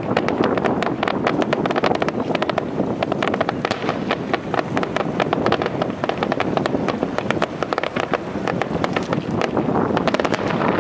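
Fireworks crackling, a dense, rapid run of sharp pops, with wind buffeting the microphone.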